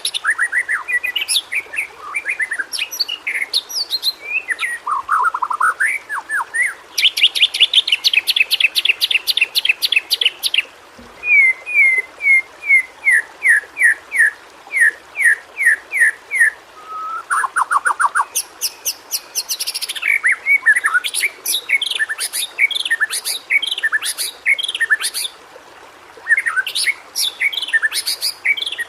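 White-rumped shama (murai batu) singing continuously in varied phrases: a rapid trill of high notes about a quarter of the way in, then a run of repeated short falling whistles, a quick lower trill, and a jumble of mixed phrases near the end.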